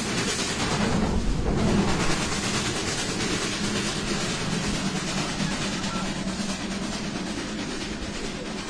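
Steam train running along the track, a steady rumble with the clatter of wheels on rail, slowly getting quieter.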